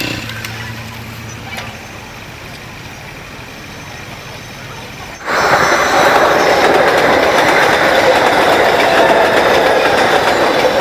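Motorcycle engine running and dying away over the first couple of seconds. About five seconds in the sound cuts abruptly to a loud, steady rushing noise.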